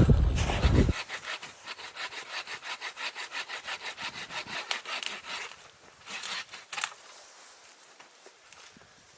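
Hand saw cutting through wood in quick, even strokes, about four to five a second, stopping about five seconds in, with a couple of scrapes after. A loud low rumble fills the first second before the sawing starts.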